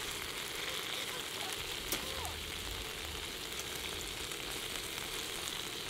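Spicy marinated webfoot octopus and pork slices sizzling steadily on a hot griddle plate while being stirred with wooden chopsticks. There is a single sharp tap about two seconds in.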